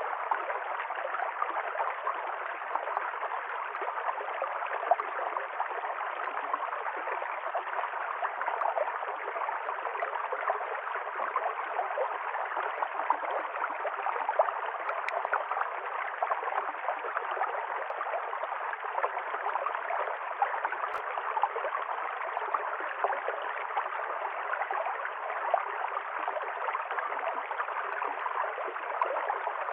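River stream flowing over rocks: steady rushing water, with constant small gurgles and splashes.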